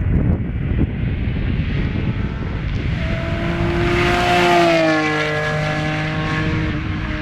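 Acura NSX V6 with an AP-X aftermarket exhaust driving past: the engine note builds as the car approaches, is loudest about four and a half seconds in, then drops in pitch as it passes and fades away.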